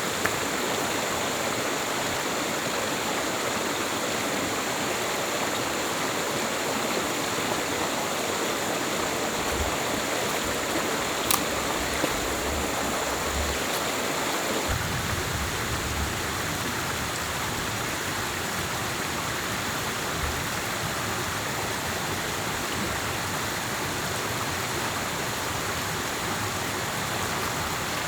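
Steady rush of a fast-flowing stream, with a single sharp tap about eleven seconds in.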